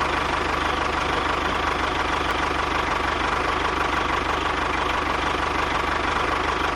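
Small engine running steadily with a rapid, even knocking rattle and a faint steady whine.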